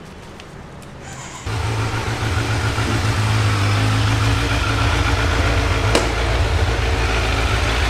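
BMW G310R's single-cylinder engine, fitted with an aftermarket exhaust, comes in abruptly about a second and a half in and runs at a steady idle. A single sharp click sounds near the end.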